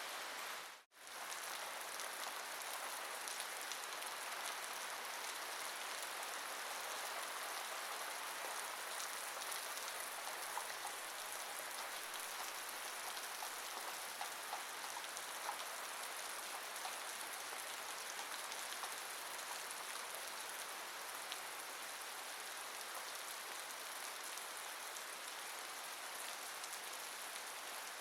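Steady rain falling on a surface: an even hiss with a few faint separate drops ticking through it. The sound cuts out for a split second about a second in, then carries on unchanged.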